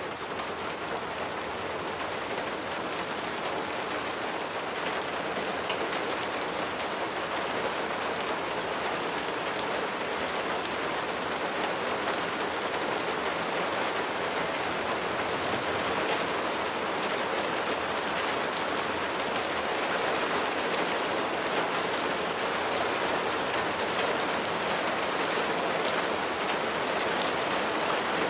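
Steady rain falling: a dense, even hiss with many fine drop ticks, slowly growing a little louder.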